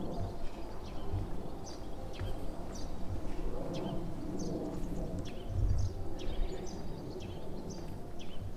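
Small birds calling in many short, high chirps over a steady low outdoor rumble, with a few uneven low thumps.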